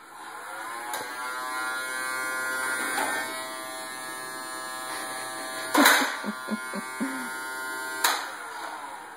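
A small vacuum cleaner's motor switches on and whines up to speed in the first second, then runs steadily. Two loud knocks come at about the middle and near the end.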